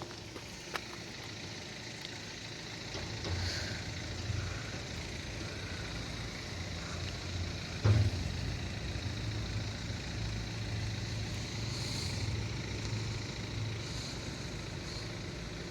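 A road vehicle's engine idling with a steady low hum, with a single sharp thump about eight seconds in.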